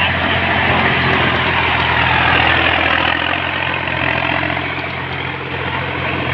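Tractor engine running steadily at a low, even speed, its loudness dipping slightly about five seconds in.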